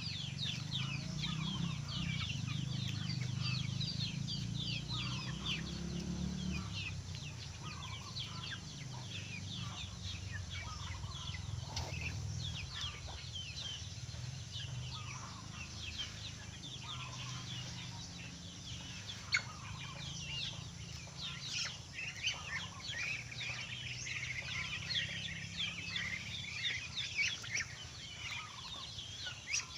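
A flock of poultry calling, many rapid high peeps and clucks overlapping throughout, over a low steady hum that is louder for the first several seconds.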